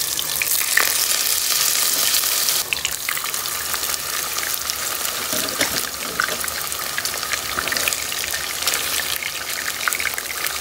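Burger patties frying in hot oil in a pot: a steady sizzling hiss with crackling pops, a little quieter from about two and a half seconds in.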